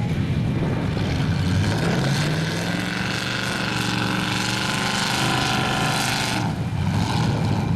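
Mud truck's engine revving hard, its pitch climbing from about two seconds in and holding high, then dropping off sharply about six and a half seconds in.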